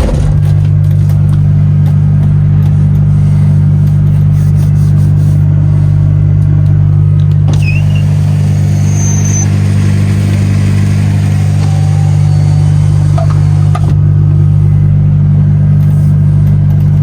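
DAF XF truck's diesel engine running steadily at a constant speed, a loud, even low drone with no change in pitch.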